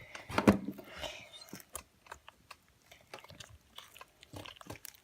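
Homemade slime being kneaded and squeezed by hand as conditioner is worked in, making irregular sticky clicks and squishes, the loudest about half a second in.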